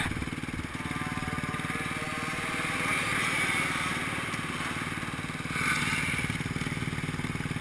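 Motocross bike engine running, with the revs rising twice, about three seconds in and again near six seconds.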